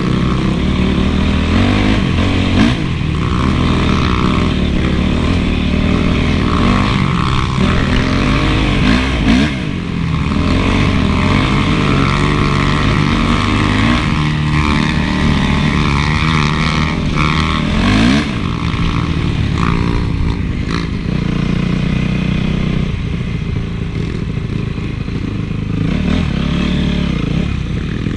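Honda CRF450 four-stroke single-cylinder dirt bike engine being ridden, revving up and down, its pitch rising and falling with the throttle.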